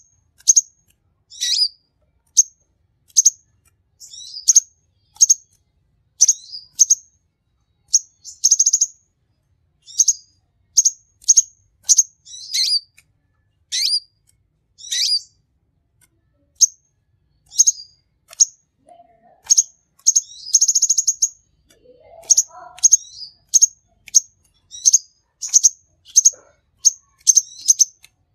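A konin sunbird singing: a steady run of high, sharp chirps and short twittering phrases, about one or two a second, with a longer rapid trill at about 8 seconds and again at about 20 seconds.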